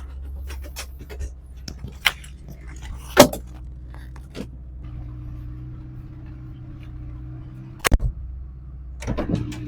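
VW GTI four-cylinder engine running on only three cylinders with a dead cylinder, heard from inside the car; its hum settles into a steadier note about five seconds in. Several sharp clicks and knocks sound over it, the loudest about three seconds in.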